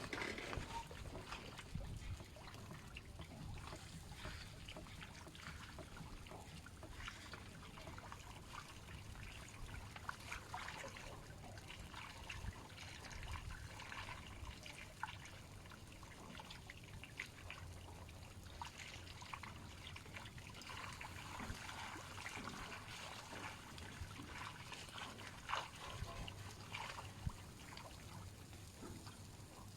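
Water trickling and splashing lightly, with scattered small clicks and drips.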